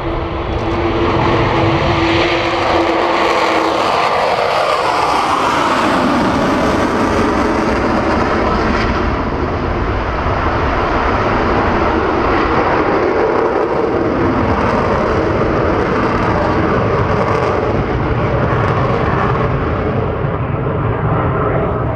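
Avro Vulcan XH558's four Olympus turbojets at high power on takeoff and climb-out. A held tone slides down in pitch about four to six seconds in, then gives way to a steady, loud jet roar.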